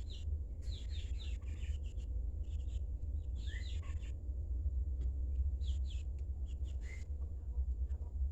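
Pet bird chirping in short runs of quick chirps and little gliding notes, with brief pauses between runs, over a steady low rumble.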